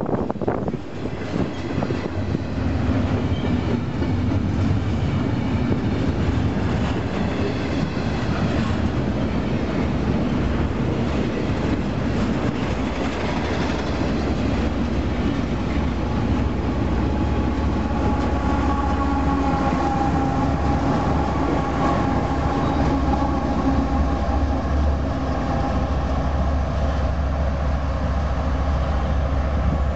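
Intermodal freight train cars passing close at speed, a steady rumble of steel wheels on rail with clickety-clack over the joints. In the second half a steady low diesel-engine drone with a few held tones rises under it as the train's locomotives near.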